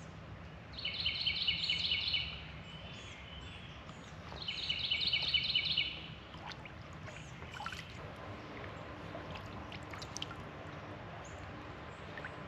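A songbird sings two rapid trills of quickly repeated high notes, each about a second and a half long, about three seconds apart. A few faint small ticks and knocks follow over a low background.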